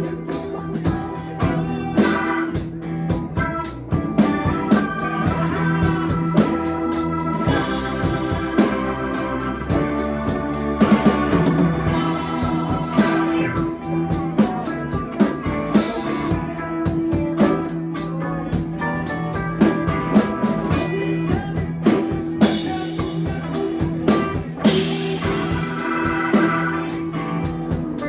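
Live band playing an instrumental passage: sustained organ chords over electric guitar, with a drum kit keeping a steady beat.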